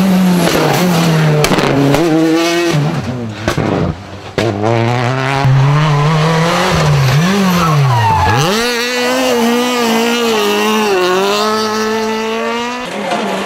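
Rally car engine at full attack, revving up and down through gear changes, with a brief lift about four seconds in and a sharp drop in pitch near the middle as it brakes and downshifts, then holding high revs again.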